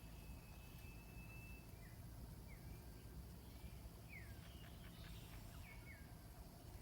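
Faint calls of a small bird known locally as the cak lilin: one long thin whistled note, then a string of short down-slurred chirps with a quick run of ticking notes about five seconds in, over a steady low background hum.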